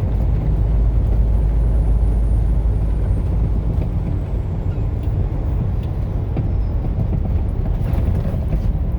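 Vehicle driving along a highway: a steady low rumble of engine, road and wind noise.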